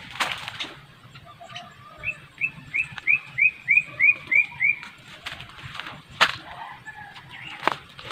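A bird calling a quick, even run of about nine short chirping notes, around three a second, for nearly three seconds. A few sharp rustles or crackles come near the start and twice near the end, the loudest about six seconds in.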